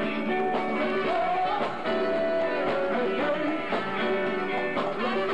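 Live party band playing a continuous groove.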